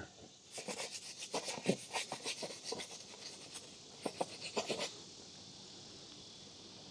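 Quick rubbing and scraping strokes by hand, as in wiping or scrubbing during motorcycle chain lubing. The strokes stop about five seconds in, leaving a faint steady hiss.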